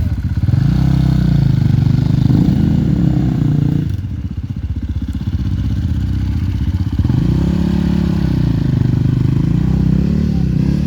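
Enduro motorcycle engine revving under throttle, its pitch rising and falling in two surges with a lower, quieter stretch in between about four seconds in.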